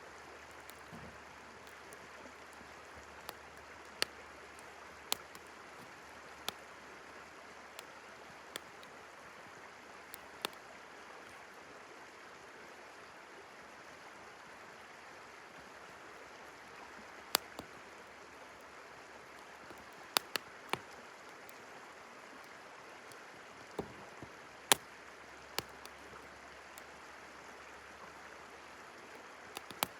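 Wood campfire crackling, with sharp pops at irregular intervals of a second to several seconds, the loudest a little past the middle, over the steady hiss of flowing river water.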